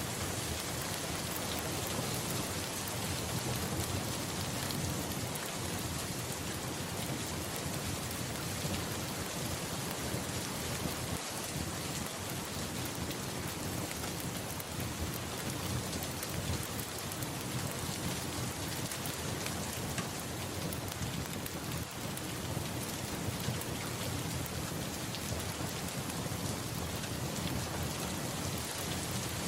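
Steady rain pattering on a surface, with low, rolling thunder rumbling underneath.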